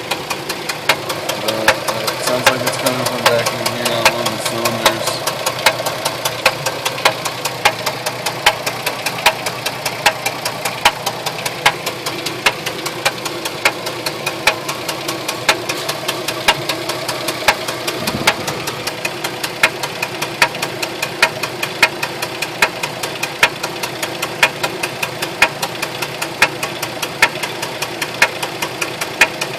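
2004 Jeep Liberty engine idling with a sharp, regular knock repeating a few times a second. The knock came on suddenly, out of nowhere.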